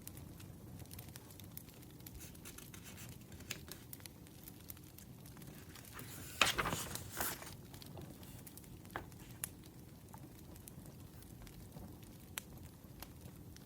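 Wood fire crackling faintly with scattered sharp pops, and a louder paper rustle lasting about a second about six and a half seconds in.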